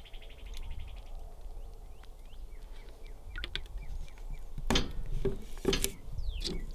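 Birds chirping, short falling calls repeated through the morning air, with a few sharp knocks in the second half.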